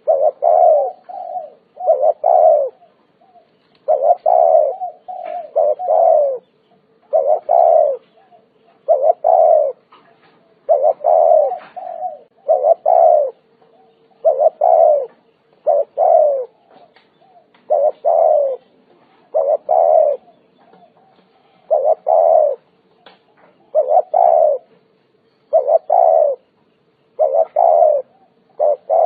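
Spotted dove cooing over and over: a long series of low, short coos, about one every second or two with brief gaps. A faint steady hum runs underneath.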